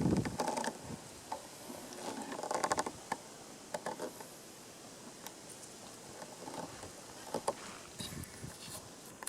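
Wood fire crackling with sharp pops and a faint sizzle. A heavy knock comes at the start, followed by short rattling clatters about half a second and two and a half seconds in.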